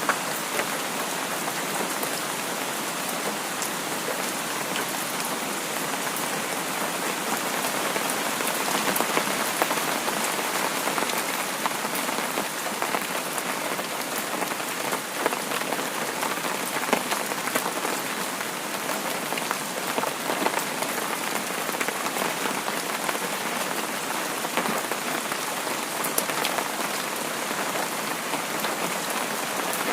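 Steady rain falling on a surface, with many small drop taps.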